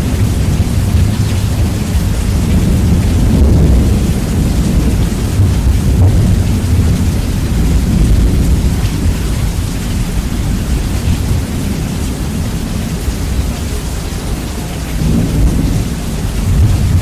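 Rain and thunder with the bass heavily boosted: a steady hiss of rain under a loud, continuous low rumble that swells and eases, dipping a little and rising again near the end.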